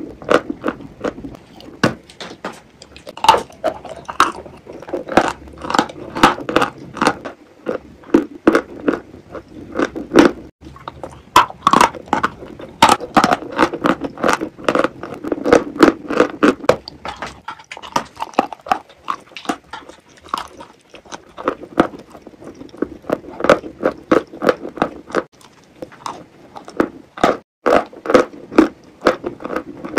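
Close-miked eating sounds: biting and chewing a soft, cream-coated food, with many sharp wet mouth clicks and lip smacks coming irregularly throughout.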